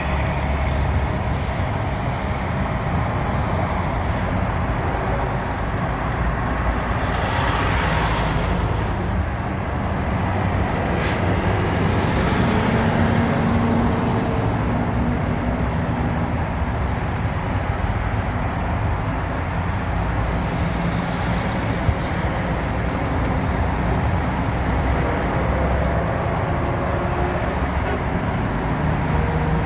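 Steady road-vehicle rumble of engine and tyres, with a short hiss about eight seconds in and a sharp click about three seconds later.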